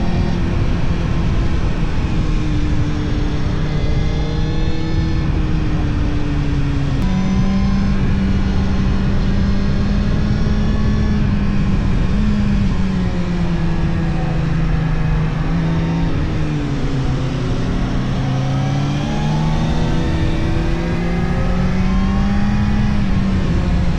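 Yamaha R1 sport motorcycle engine running under way, with wind and road noise. The engine note drops abruptly about seven seconds in, sinks lower around two-thirds of the way through, then rises again as the bike speeds up.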